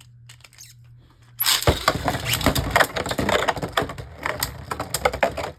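Two Beyblade Burst tops launched into a plastic stadium about a second and a half in, then a dense, rapid clatter and scrape as they spin and knock against each other and the stadium walls.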